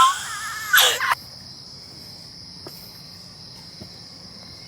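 Insects chirring in one steady, high, unbroken drone. A high-pitched voice calls out loudly over it for about the first second.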